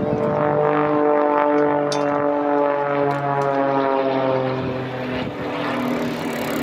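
Propeller aircraft flying a display pass, its engine note steady and slowly falling in pitch.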